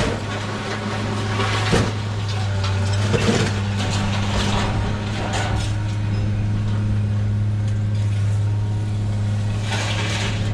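A steady low mechanical hum, with a few short knocks and clatters over it.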